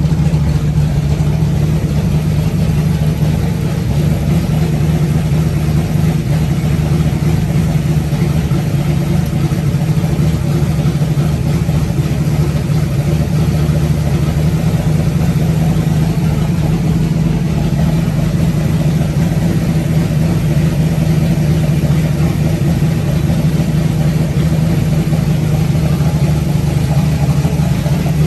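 Newly built 360 stroker V8 engine running steadily on its first run, at an even, unchanging speed.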